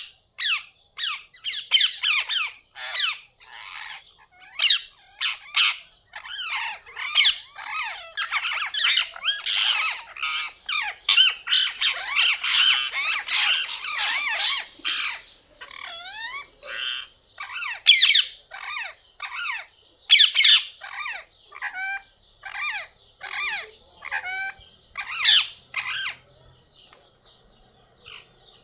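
Several parrots squawking: short, harsh calls repeated over and over, crowding and overlapping in the middle, with a few rising whistled calls, then thinning out to scattered squawks near the end.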